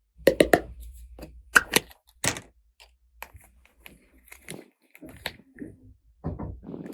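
Small plastic toy pieces being handled and set down: a quick run of sharp clicks and taps, a few more knocks, then a short rustle near the end.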